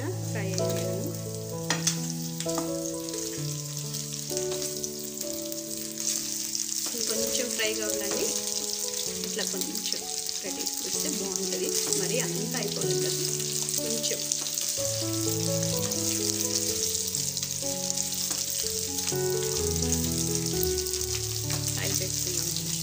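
Chicken pieces frying in oil in a non-stick pan, a steady sizzle, with a spatula now and then scraping and turning them. Background music with held notes plays underneath.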